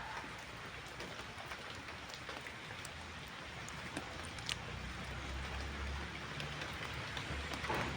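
Steady rain falling, an even hiss with scattered ticks of drops, and a low rumble in the middle seconds.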